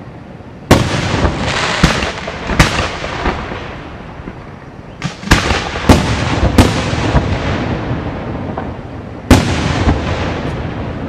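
Aerial fireworks shells bursting in a display: a sharp bang about a second in, two more soon after, a cluster of three or four around five to seven seconds in, and another near the end, each trailing off in a long rumble.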